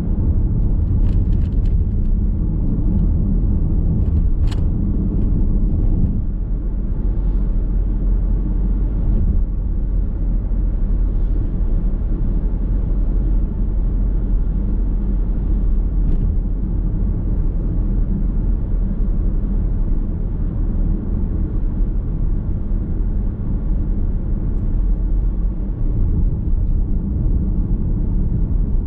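Car driving along at steady speed, heard from inside the cabin: a continuous low rumble of road and tyre noise. A few faint short clicks in the first few seconds, one sharper about four and a half seconds in.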